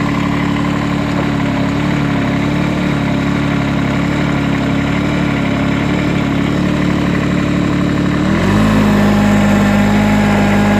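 Small diesel tractor engine idling steadily just after a cold start. About eight seconds in, its note drops and it grows louder as a load comes on, with the hydraulic blade being worked.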